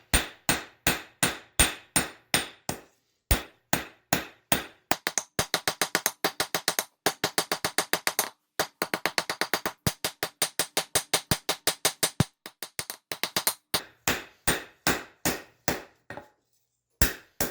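Hand hammer striking a hot railroad spike on an anvil to draw it out: a long run of ringing blows, about two a second at first and quickening to about four a second in the middle, broken by a couple of short pauses.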